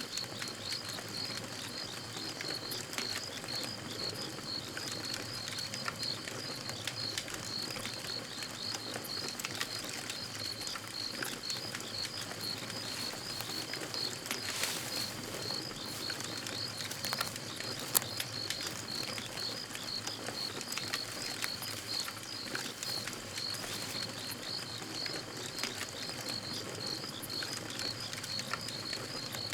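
Crickets chirping in a steady, even rhythm over a crackling campfire, with scattered small pops and one sharp pop about two-thirds of the way through.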